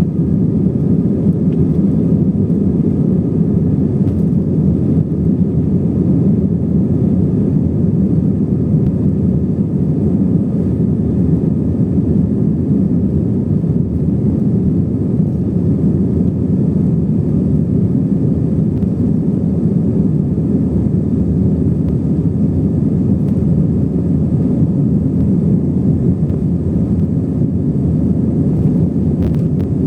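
Airplane taking off: a loud, steady, low rumble of engines and rushing air.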